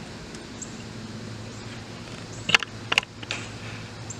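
Two short, sharp clicks or taps about half a second apart, then a fainter third, over a steady low hum.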